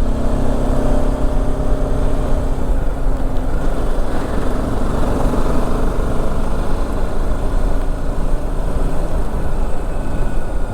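Motorcycle ride: the BMW G310GS single-cylinder engine running steadily under heavy wind rumble on the microphone. The engine note fades a few seconds in, leaving mostly wind and road noise.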